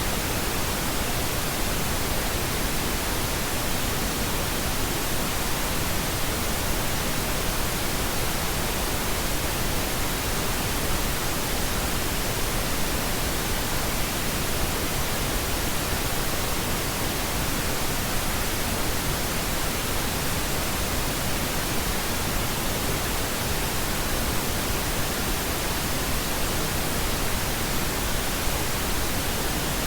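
Steady synthetic pink noise: an even hiss spread across the whole range, with no change or events.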